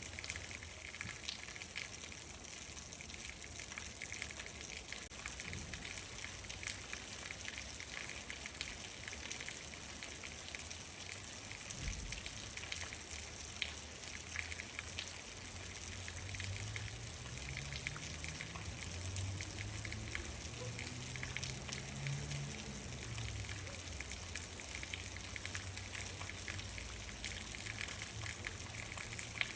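Steady rain, with many individual drops heard as sharp ticks. From about sixteen to twenty-five seconds in, a low hum swells and fades, sliding up and down in pitch.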